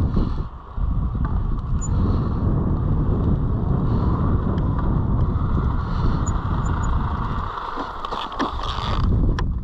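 Dirt bike engine running as the rider sets off again after failing a sand dune climb, heavy wind buffeting the microphone.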